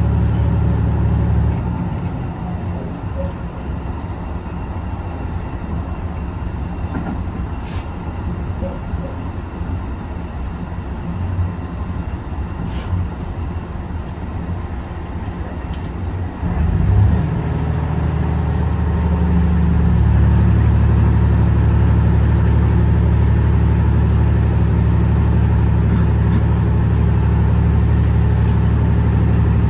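A hybrid diesel railcar (JR HB-E210 series) running, heard from on board: a steady low drone with an engine hum. The drone drops about a second and a half in, a short bump comes just past the middle, and the hum then builds back to a louder steady level.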